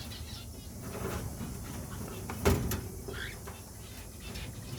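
Cockatiels giving a few short chirping calls, with one sharp loud knock about halfway through.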